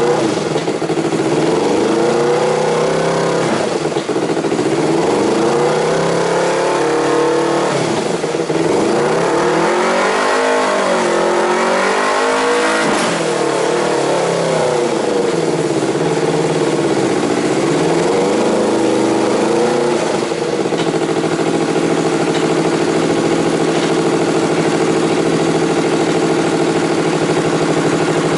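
Yamaha YZF-R25's 250 cc parallel-twin engine breathing through an aftermarket exhaust muffler, revved in a series of throttle blips, the biggest and longest near the middle, then settling to a steady idle for the last third.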